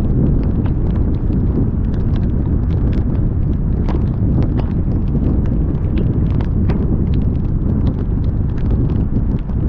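Heavy rain while driving: a loud, steady low rumble of wind and road noise, with many irregular sharp taps of raindrops striking close to the microphone.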